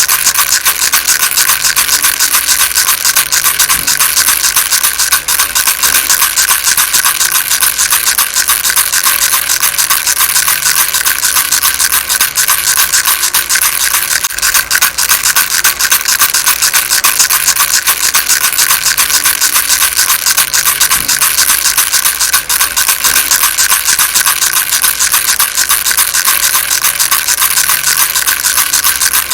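Baby rattle shaken steadily without a break: a dense, continuous stream of small fast clicks, mostly high in pitch.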